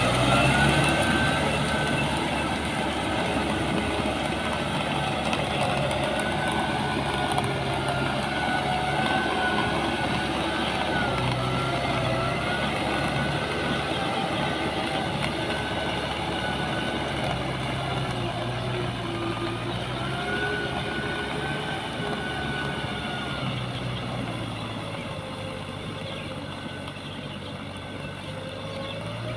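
Diesel engine of heavy farm or earthmoving machinery running under changing load. Its pitch rises and dips, and it slowly gets quieter toward the end.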